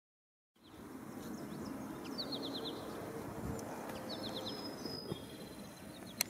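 Outdoor ambience that cuts in about half a second in: a steady low hiss with a small songbird giving two quick runs of four or five short, high, falling chirps, and one sharp click near the end.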